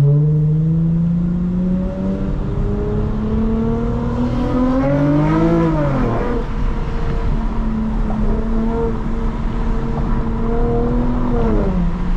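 Lexus IS350's 3.5-litre V6 through a loud exhaust with no secondary cats and a deleted muffler, driving under way. The engine note holds steady, swells up and falls back quickly about five to six seconds in, then holds again and drops just before the end.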